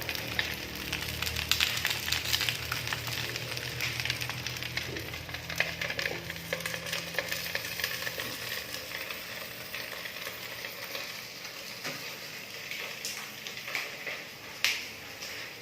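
Food frying in hot oil: a steady sizzle with many small crackles, and one sharp click near the end.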